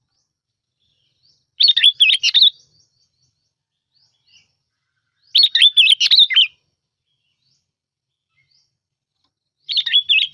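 Sooty-headed bulbul song used as a lure call: three short, quick bubbling phrases of several notes each, spaced about four seconds apart.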